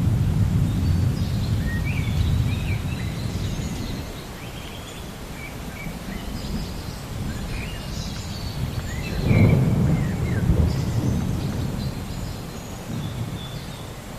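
Rolling thunder rumbling, loudest in the first few seconds, dying down, then swelling again about nine seconds in, while birds chirp.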